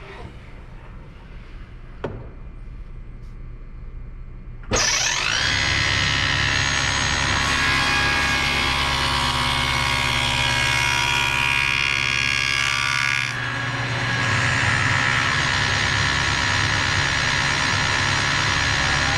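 Table saw with a dado head switched on about five seconds in, spinning up quickly and then running steadily. From about halfway through, the dado head cuts through a wooden leg piece for roughly six seconds, adding a hissing cutting sound, then runs free again.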